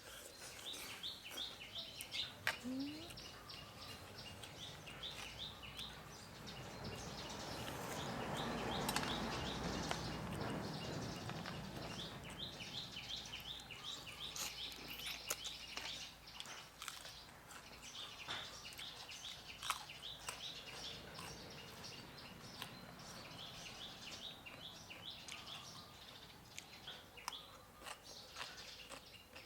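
Small birds chirping in quick repeated runs of notes. A rushing swell of noise rises and fades around the middle, and short clicks are scattered throughout.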